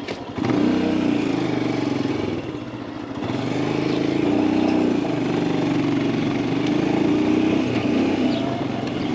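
Royal Enfield Himalayan 411's air-cooled single-cylinder engine thumping at low revs, then opened up about half a second in to pull away and accelerate. The revs drop briefly near the three-second mark, as at a gear change, then climb again and run on under throttle.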